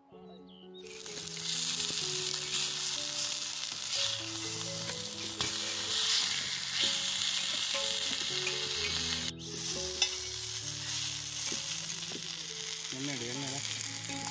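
Marinated tandoori chicken pieces sizzling in hot oil on an iron tawa griddle. The sizzle starts about a second in and stays steady, with a brief drop near the middle.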